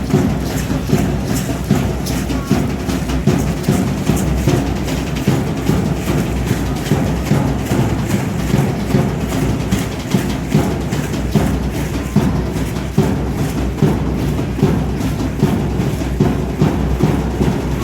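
Drum played for Aztec dancing, beating out a steady, even rhythm.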